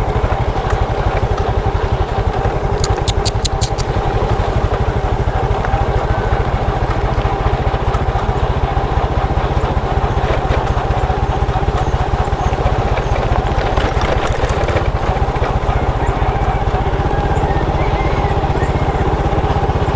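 Small motorcycle engine running steadily while riding, with a quick run of faint clicks about three seconds in.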